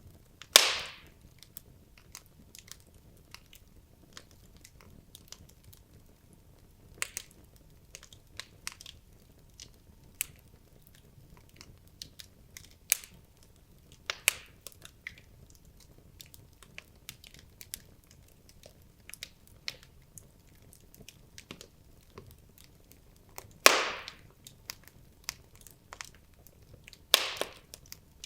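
Wood logs burning in a fireplace, crackling with irregular small snaps. A few louder pops stand out: one near the start, one around the middle and two near the end.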